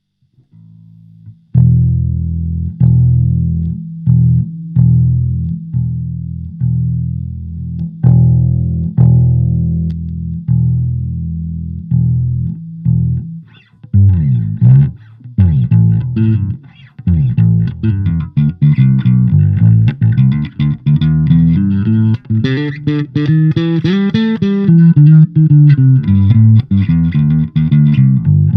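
Electric bass guitar played through a Fender Rumble 25 compact bass amp. For the first half it plays plucked notes about once a second, each left to ring and fade. About halfway in it switches to a faster, busier line that climbs and falls in pitch.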